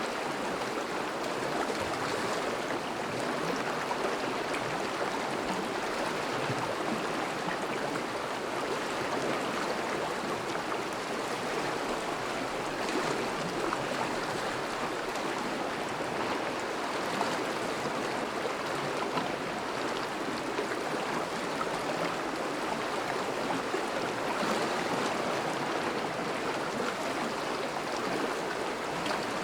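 Thawing river flowing steadily over and around melting ice: an even rush of moving water with no breaks.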